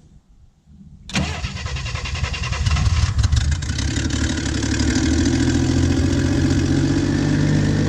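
1967 Chevy II's carbureted engine starting about a second in, uneven for the first couple of seconds, then settling into a steady run. The engine has a vacuum leak that the owner puts down most likely to the carburetor's throttle blade.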